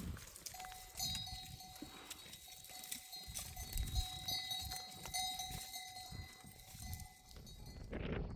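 A flock of goats and sheep, with a steady ringing tone from a livestock bell.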